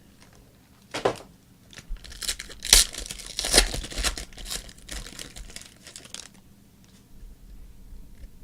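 A trading card pack wrapper torn open and crinkled by hand, a short crackle about a second in, then a longer run of tearing and crinkling that stops a little after six seconds.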